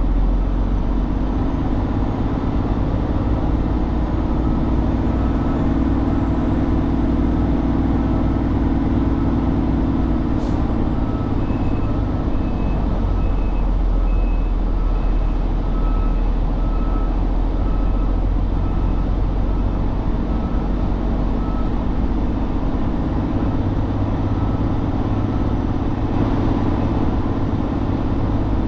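Heavy truck's diesel engine running steadily, a deep drone. About ten seconds in there is a single sharp click, followed by a repeating electronic beep about twice a second for roughly ten seconds.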